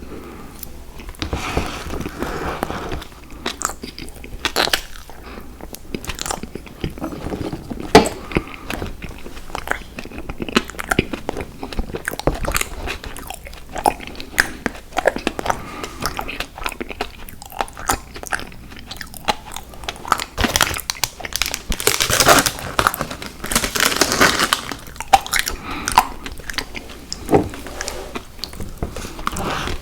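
Close-miked eating of sour gummy worms cereal: irregular crunching bites and wet chewing, with a denser, louder run of crunching about two-thirds of the way through.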